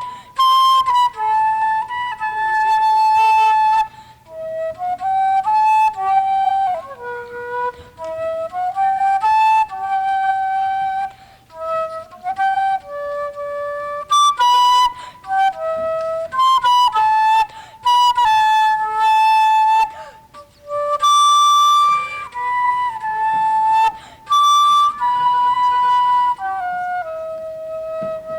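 Solo flute playing a slow melody of held notes in phrases, with short pauses for breath between them.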